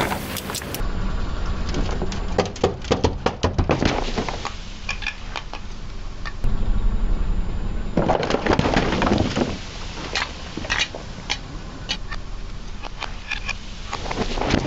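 Car tyre rolling over and crushing crunchy objects: rapid runs of sharp cracks and crunches in several bursts, over the low rumble of the car.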